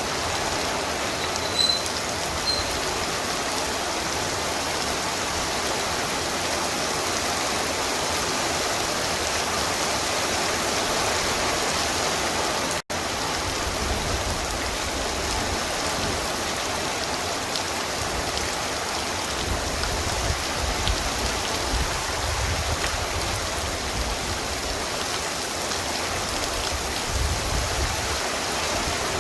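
Torrential rain pouring down in a steady, even hiss. Low rumbles come and go through the second half, and the sound drops out for a split second about halfway.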